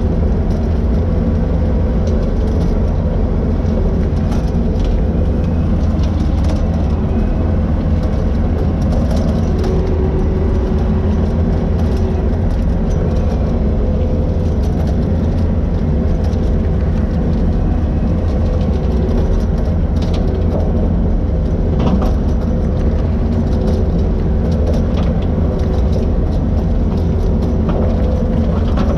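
Skid steer engine running steadily under load with the bushhog mower going, a deep even drone without revving. A couple of sharp knocks come about 20 and 22 seconds in.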